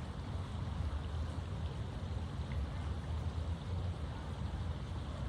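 Steady low rumble with a fainter hiss above it: outdoor background noise with no distinct event.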